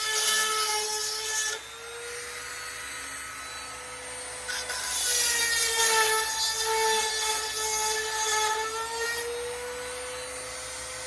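A small rotary tool's motor whines steadily while its grinding stone sharpens chainsaw chain teeth. It grinds at the start, then runs free, and grinds again in a longer stretch that ends about two seconds before the end.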